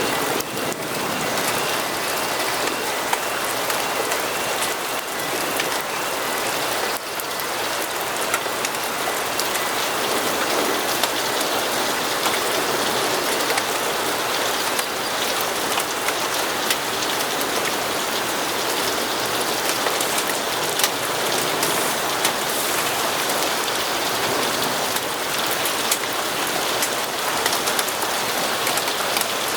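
Steady heavy rain falling on surfaces, an even hiss with many scattered sharp drop ticks.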